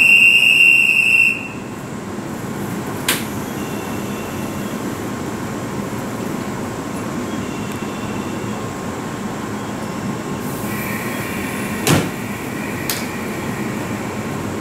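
A shrill whistle blast for about a second, then the steady running hum of a stopped JR 381 series limited express electric train, with a few sharp clunks, the loudest about twelve seconds in.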